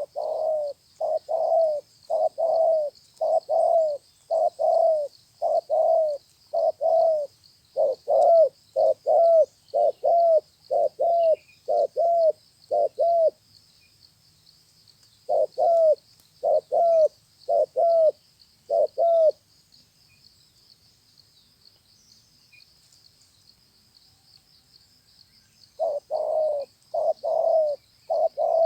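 Spotted dove cooing: a long run of short, low coos for about thirteen seconds, a shorter run of about six a couple of seconds later, and a new run starting near the end. Its keeper rates it as a young, spirited bird with a fine voice. A faint steady high hiss runs underneath.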